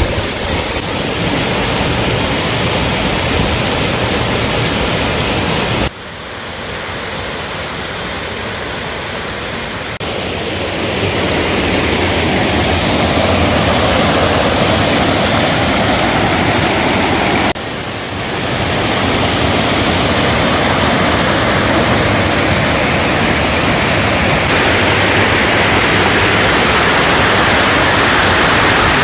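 Zengoro Falls, a waterfall, rushing with a steady, loud noise. The sound drops suddenly about six seconds in and swells back over the next few seconds, then dips again briefly just before halfway.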